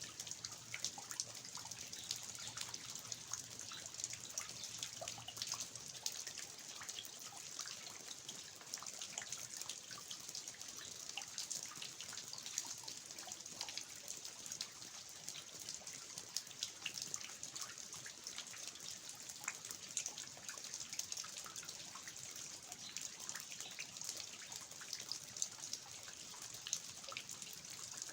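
Steady rain with many scattered drips, among them water falling from the eaves of a traditional tiled-roof house onto the ground.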